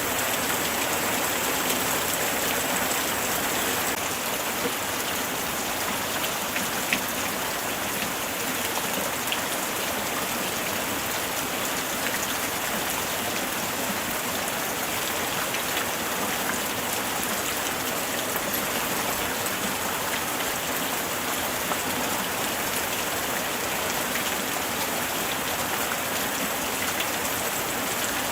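Steady light rain falling on surfaces, an even hiss with scattered individual drops ticking.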